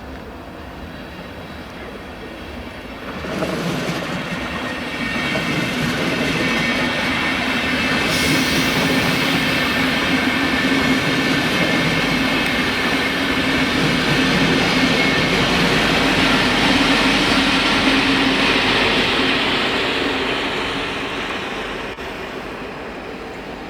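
A train passing close by on the tracks. It comes in sharply about three seconds in, holds a loud rumble with a high steady whine over it, and fades away near the end.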